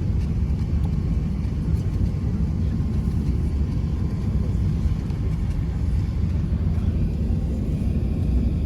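Airbus A380 airliner during landing: a steady, even low rumble with no distinct bangs or changes.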